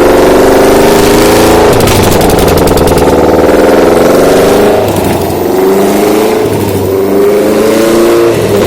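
Subaru EL154 1.5-litre flat-four engine running on a test stand and being revved: the pitch eases down and climbs again, then rises in about three short throttle blips in the second half.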